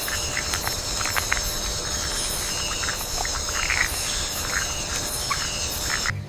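Night rainforest ambience: a steady insect chorus with a continuous high buzz and regularly pulsing high chirps, dotted with short chirps. It cuts off suddenly near the end.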